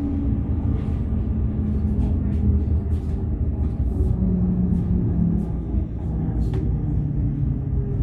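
Steady rumble of a train heard from inside the carriage, wheels running on the track, with a low hum that shifts in pitch and scattered light clicks.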